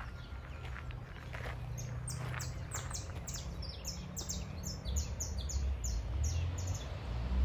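A bird calling in the woods: a quick run of short, high notes, each falling a little, repeated about three times a second from about two seconds in to near the end. A low rumble runs underneath.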